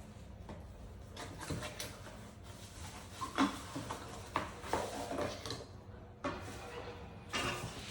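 Coffee-making tools being handled: a run of irregular light knocks and clinks, the sharpest about three and a half seconds in.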